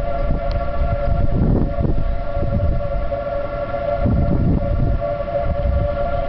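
Outdoor civil defense siren sounding a steady, unbroken tone, signalling a tornado warning, with a low rumbling noise underneath.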